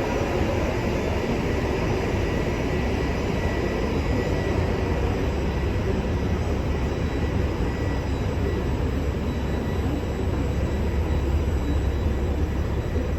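Train running through the station, a steady low rumble with rail noise and no break.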